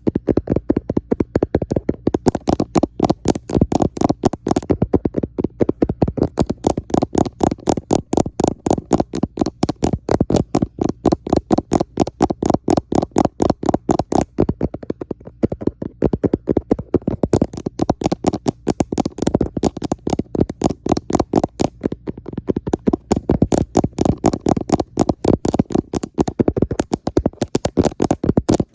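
Fingertips tapping fast on a camera, close to its microphone: a continuous run of dull, muffled taps, several a second, with short shifts in pace.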